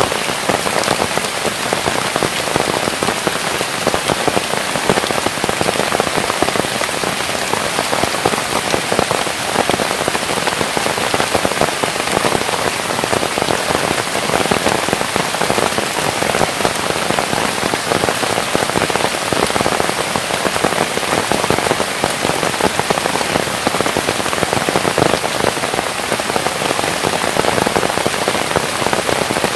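Rain falling steadily on a surface: a dense, even patter of many small drops that holds without change.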